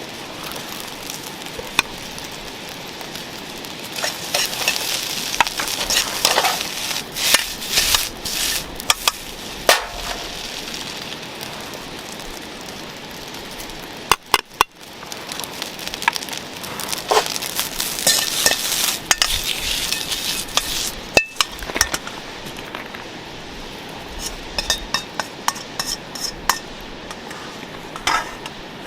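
Fried rice sizzling in a pan over a campfire, stirred and tossed with a metal utensil: a steady frying hiss overlaid by frequent scrapes and clinks against the pan. The sound cuts out briefly about halfway through.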